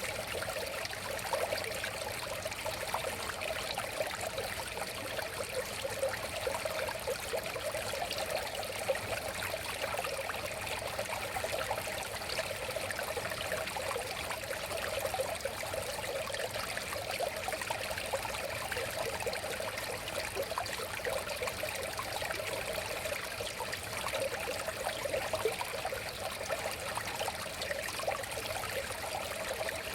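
River water flowing steadily, a continuous babbling rush.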